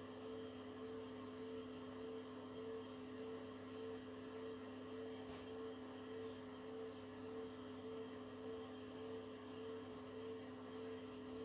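Beko WTK104121W washing machine spinning on its 1400 rpm spin cycle: a steady motor whine with a light regular pulsing, about three a second.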